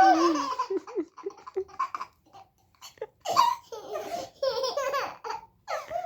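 Babies laughing in short, repeated bursts of giggles and belly laughs.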